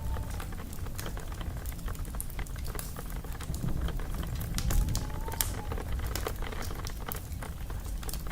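Wood fire crackling: dense, irregular pops and snaps over a steady low rumble of burning logs.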